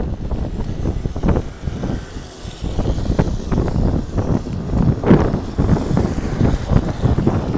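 Wind buffeting the microphone in uneven gusts, a rough low rumble that rises and falls.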